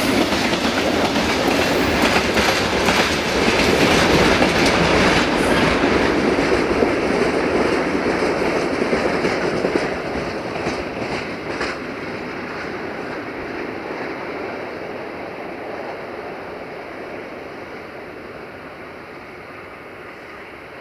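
Open freight wagons rolling past on the rails with a clickety-clack of wheels over rail joints. About halfway through, the train draws away and the rolling sound fades steadily.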